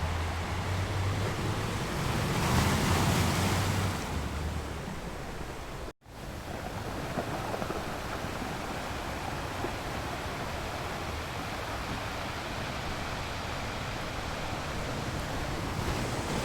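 Sea waves washing on the shore in a steady rush, with one wave breaking louder about three seconds in. Wind rumbles on the microphone, and the sound cuts out for an instant about six seconds in.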